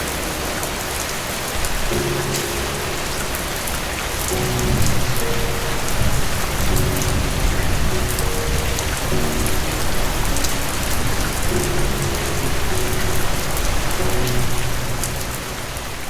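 Steady rain falling, with soft music of long held low notes underneath and a low rumble of thunder through the middle.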